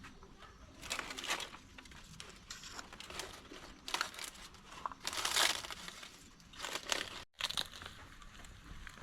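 Irregular rustling and crinkling in short bursts, the loudest a little past the middle.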